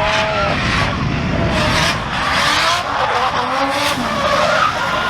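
Drift cars sliding, engines revving up and down with tyres squealing throughout.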